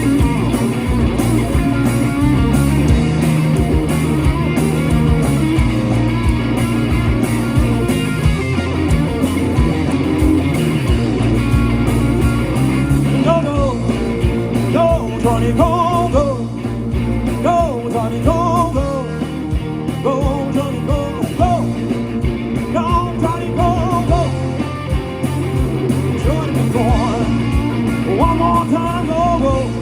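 Live blues-rock band playing, with electric guitar over bass and a steady drum beat. About 13 seconds in, a lead line with bending, sliding notes comes in over the band.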